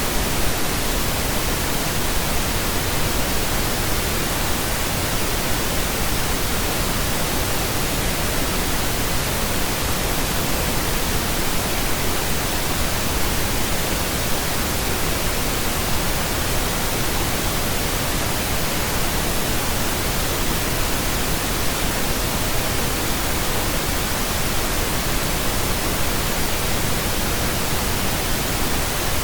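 Steady pink noise: an even, unchanging hiss with no tones or beats in it.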